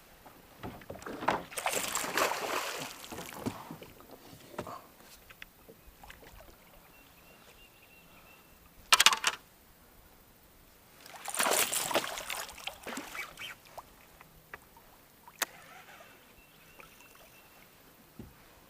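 Water splashing in several bursts, the loudest about a second in and again around eleven seconds, from a hooked bass thrashing at the surface as it is fought beside the kayak.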